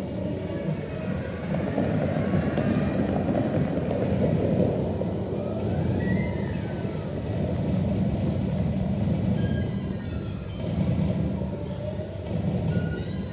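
Loud music over the Dubai Fountain's outdoor loudspeakers, with a heavy low rumble beneath it and a tone that rises and falls about halfway through.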